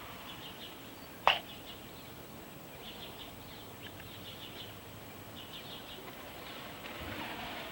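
Small birds chirping in short, quick clusters of high notes, with one sharp, loud clap about a second in.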